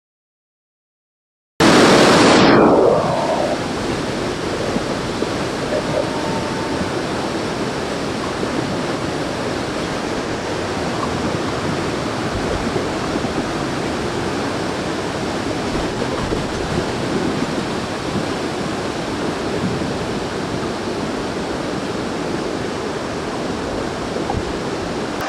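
Steady rush of water from the Ban Gioc waterfall, starting abruptly about a second and a half in and loudest for the first second or so.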